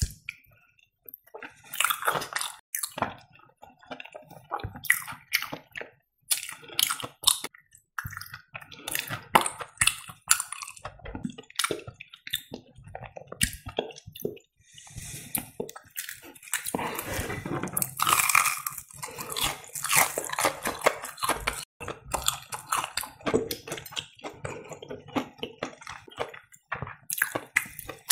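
Close-miked eating sounds: wet chewing, lip smacks and finger-licking while eating fried breaded cheese, with many short clicks in quick succession.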